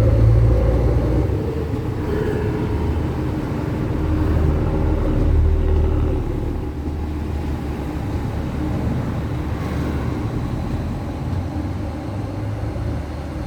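A Northern Ireland Railways diesel passenger train running in, with a steady low engine and wheel rumble. It is loudest at first and eases slightly about halfway through.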